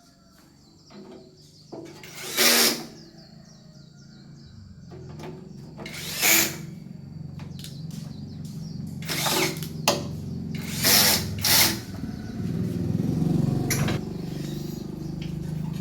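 A small power tool run in about five short bursts of roughly half a second each, over a low steady hum that grows louder as it goes on.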